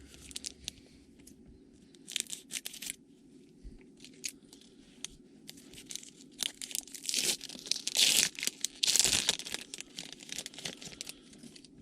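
Crinkling and tearing of trading-card packaging and plastic as packs and cards are handled: scattered crackles at first, then a louder run of tearing and crinkling from about seven to ten seconds in.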